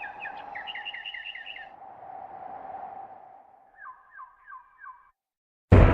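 A bird's trilling call: a quick run of repeated chirps, then a second, lower run about four seconds in, over a faint steady hum.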